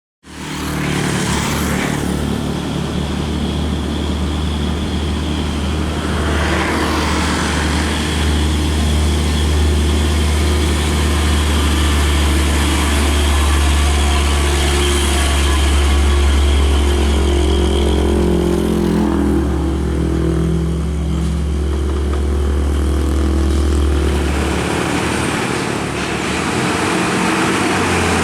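Heavy diesel truck engines and road traffic, with a deep steady drone that eases off about 24 seconds in.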